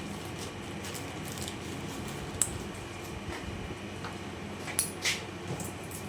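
Hand food preparation of garlic and onion: a few sharp clicks and knocks, the loudest about two and a half seconds in and a pair near the end, over a steady background hum.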